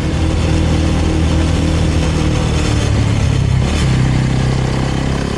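Suzuki Thunder 250 motorcycle engine running under way, its note steady with a brief dip about two-thirds of the way through.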